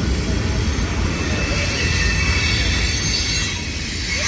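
A freight train of hopper and tank cars rolling slowly past on the rails: a steady, loud low rumble of wheels and cars.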